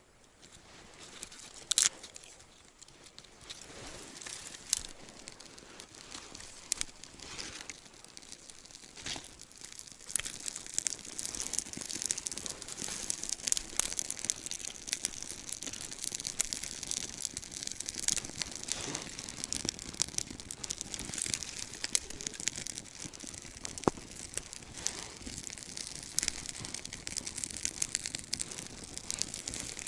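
Campfire crackling with dense, irregular pops and hiss, sparse at first and becoming thick and steady about ten seconds in as the fire catches.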